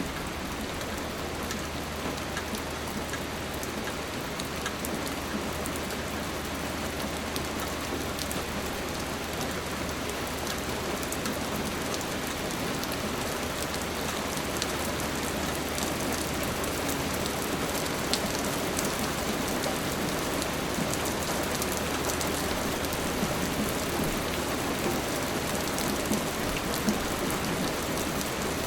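Steady rain falling, with many individual drops ticking through the even hiss.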